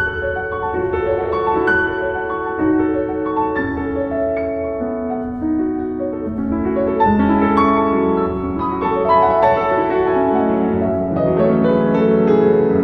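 Piano music: a pianist playing a flowing melody over sustained, overlapping chords.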